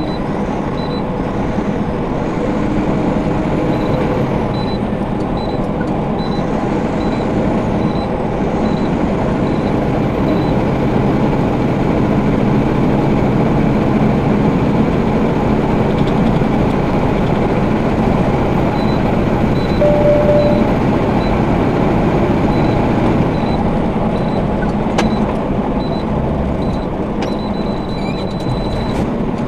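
Steady engine and road noise inside a moving semi truck's cab. A faint regular ticking, somewhat under two a second, runs for about the first nine seconds and again about two-thirds of the way through.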